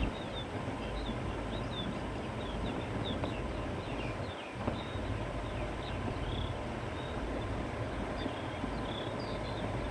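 Wind blowing steadily with a low rumble, while small birds chirp many times in short, high notes.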